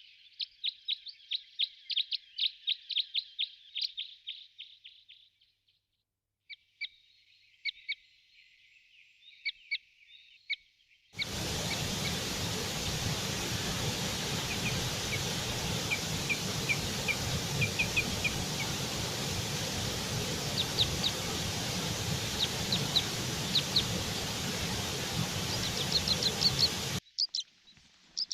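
Songbirds chirping in quick, rapid series, in separate spliced takes. From about a third of the way in, a steady hiss-like background noise runs under further chirps and cuts off suddenly near the end.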